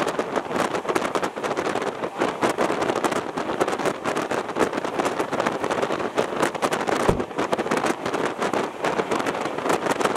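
Indian Railways train running at speed, heard through its open window: a loud, steady rush of wind buffeting the microphone over the train's running noise, with fast irregular clatter throughout. A brief low thump about seven seconds in.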